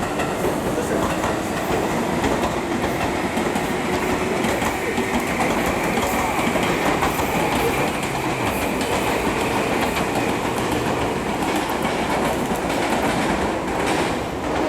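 JR Central 315 series electric train pulling out of the platform, wheels clacking over rail joints, with a faint whine that rises slowly as it speeds up.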